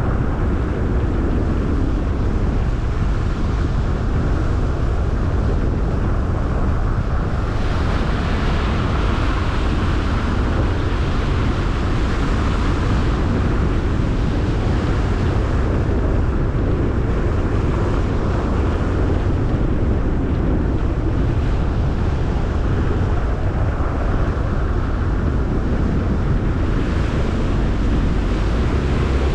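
Car driving on a winter road: steady low rumble of tyres, engine and wind, with a brighter hiss that swells for several seconds about seven seconds in and again near the end.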